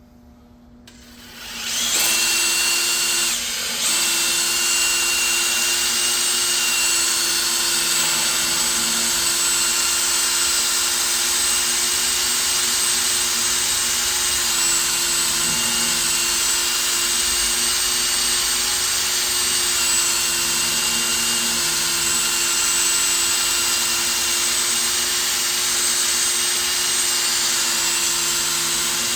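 A power tool running steadily with a high whine. It comes up to speed over the first two seconds, drops out briefly just before four seconds, and then runs on without a break.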